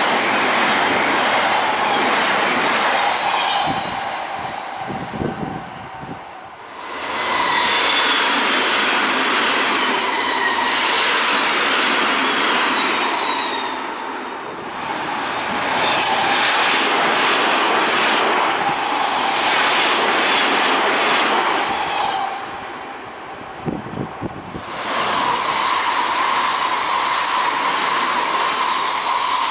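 Several Odakyu electric commuter trains pass one after another at speed: wheels running on the rails with rhythmic clacking over the joints and a steady high whine. The noise dips briefly between trains about 5, 14 and 23 seconds in. The last pass is a 5000 series train.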